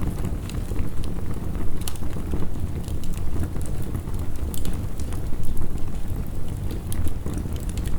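Wood fire crackling, with scattered sharp pops, over a steady low rumble of heavy rain.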